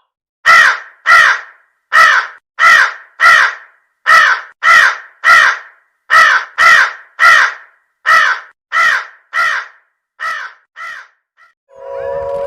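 A bird calling over and over: about seventeen short, loud calls in clusters of two or three, with the last few growing fainter.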